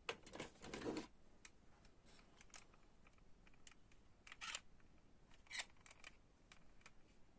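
Faint, scattered clicks and taps of small diecast toy cars and their plastic packaging being handled, with a quick cluster in the first second and single sharper clicks later.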